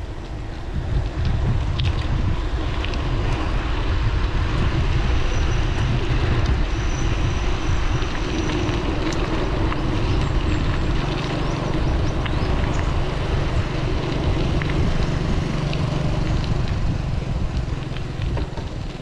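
Wind buffeting the microphone of a moving mountain bike, a loud, steady low rumble, joined by a steady low hum from about ten seconds in.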